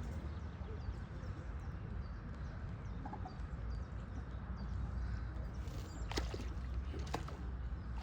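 A bird chirping in a quick series of short, high, falling calls, about two to three a second, over a steady low rumble. A few sharp clicks come near the end.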